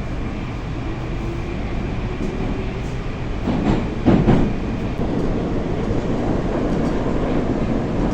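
Moscow Metro Moskva-2019 train running on the line, a steady rumble with wheels on rail. A brief louder burst comes about three and a half seconds in.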